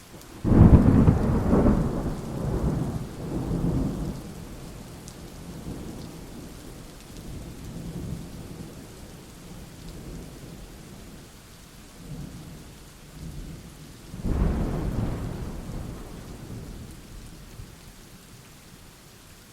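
Thunderstorm: steady rain with two claps of thunder, a loud crack about half a second in that rumbles on for several seconds, and a second rumble near the end.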